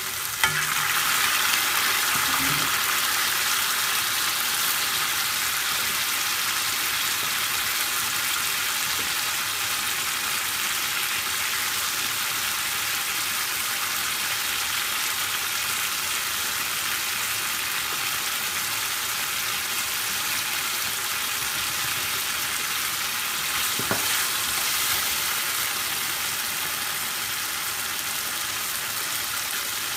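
Chicken curry sauce sizzling steadily as it fries in a karahi, slightly louder in the first couple of seconds. A sharp knock of the metal spoon against the pan about half a second in, and a lighter one later on.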